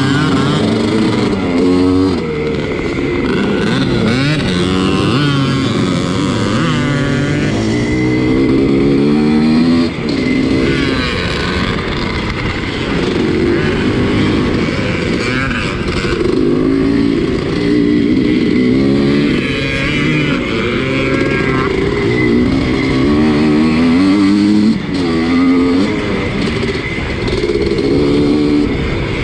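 The two-stroke single of a 1983 Husqvarna 250CR motocross bike racing, its pitch rising and falling as it revs up and down through the gears, with other race bikes' engines overlapping it.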